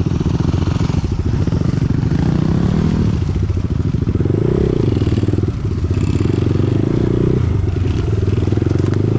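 Dirt bike engine pulling hard under throttle, its note stepping up and down several times as the rider works the throttle, with the bike rattling.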